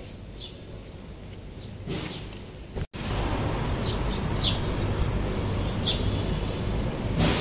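Small birds chirping in short, quick, falling notes, repeated every second or so. About three seconds in, the sound cuts to a much louder steady rush of wind noise, and the chirps go on over it.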